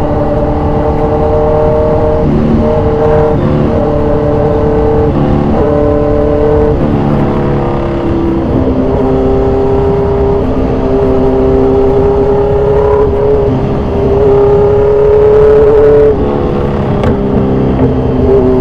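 Kawasaki Z1000 Sugomi's inline-four running loud through an aftermarket exhaust under hard acceleration. In the first seven seconds the note climbs in short steps, each cut by a quick upshift. It then holds a long, slowly rising pull and eases off about two seconds before the end.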